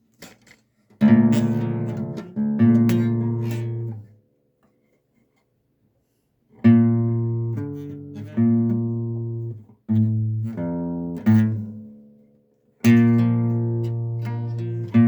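Acoustic guitar chords, each strummed once and left to ring out and fade. There are about eight chords, in two groups split by a pause of a couple of seconds.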